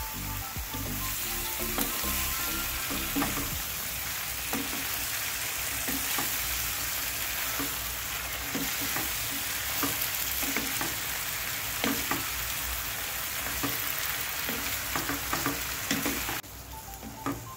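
Oyster mushrooms and chicken sizzling as they stir-fry in a pan, with a wooden spatula scraping and tapping against the pan now and then. The sizzle drops away suddenly near the end.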